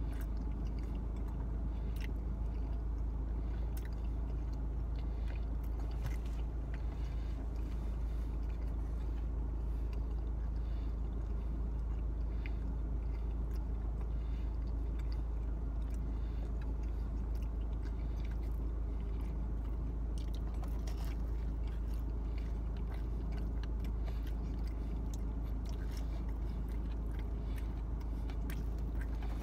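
A person chewing pizza, with irregular wet mouth clicks and smacks, over a steady low hum inside a car.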